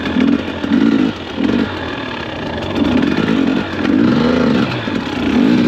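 2021 KTM 250 XC-W dirt bike's two-stroke engine revved in repeated bursts, its pitch rising and falling with each blip of the throttle.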